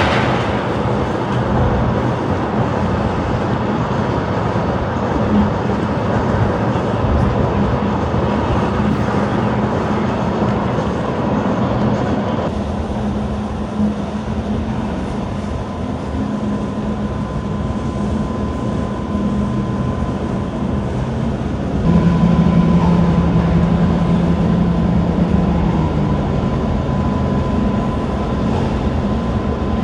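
Steady low rumble of a large cruise ship's engines under way, with a faint steady hum above it. The sound changes abruptly twice, about twelve and twenty-two seconds in.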